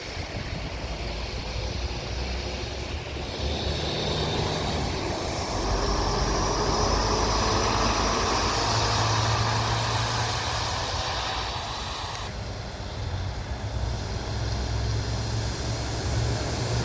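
Heavy truck running, louder for several seconds in the middle and falling back abruptly about twelve seconds in.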